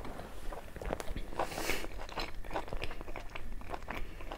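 A person chewing a mouthful of puri dipped in mutton curry: a run of small wet mouth clicks and crunches, with a louder crunch about one and a half seconds in.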